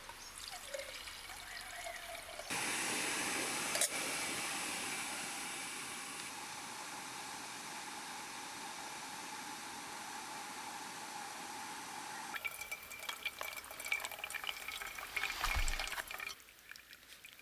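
Water being poured steadily for about ten seconds, starting suddenly a couple of seconds in and slowly tapering, while coffee is being made. Light knocks and handling sounds follow near the end.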